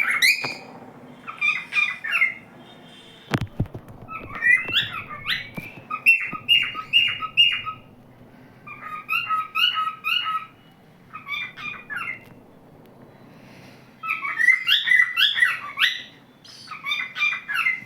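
Cockatiel singing: about eight short bouts of quick chirpy whistled notes, each a second or two long, with brief pauses between them. A single sharp knock sounds about three and a half seconds in.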